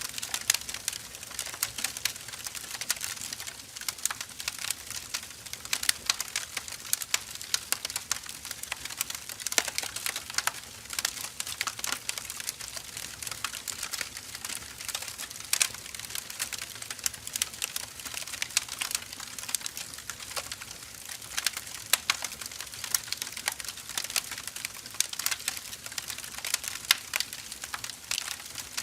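Firewood burning with constant irregular crackling and sharp pops over a steady hiss.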